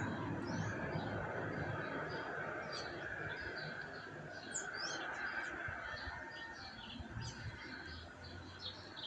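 Birds chirping, many short high chirps scattered throughout over a steady background hiss that fades slowly.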